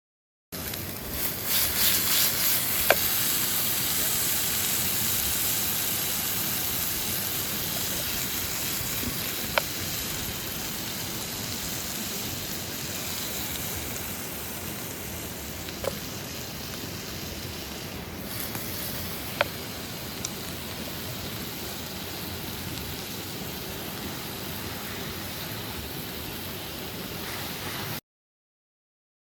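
Steady rushing of a flowing river, gradually easing in level, with a few single sharp clicks spread across it.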